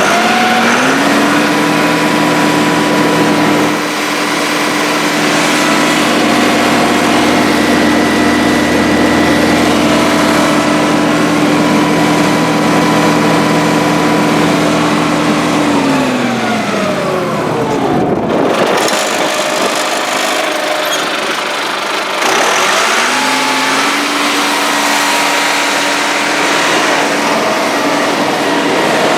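1997 John Deere 5500 tractor's diesel engine running. It is throttled up and held steady for about fifteen seconds, drops back toward idle, then is throttled up again about two-thirds of the way through and holds.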